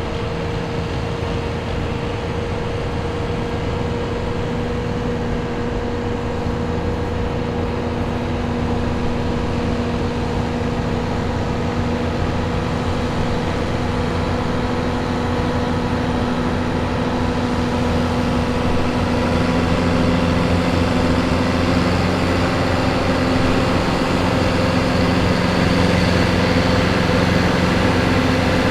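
John Deere 2130 farm tractor's diesel engine pulling a weight sled under steady heavy load. It holds a near-constant speed and grows gradually louder.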